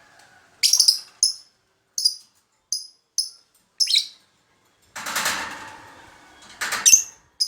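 Lovebird giving a series of short, sharp, high chirps at irregular intervals, about eight in all, with a longer, rougher burst of sound about five seconds in.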